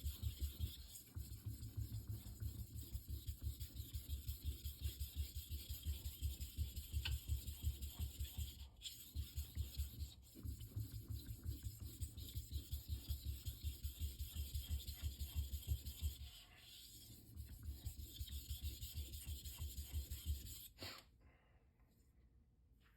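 Knife blade being stroked back and forth on a Shapton Rockstar 1000-grit whetstone, a steady rhythmic scraping of about four strokes a second. There is a short lull about two-thirds of the way through, and the strokes stop near the end.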